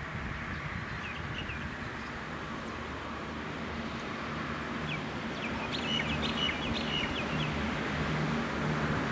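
V/Line VLocity diesel railcar approaching, its engine hum growing steadily louder. Birds chirp about a second in and again from about five to seven and a half seconds.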